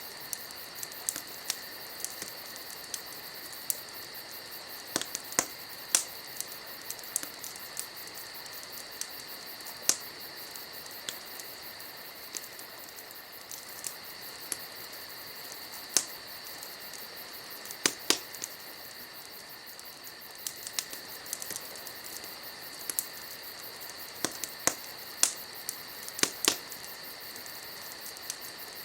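Burning firewood crackling, with irregular sharp pops and snaps, some much louder than others, over a steady high-pitched background drone.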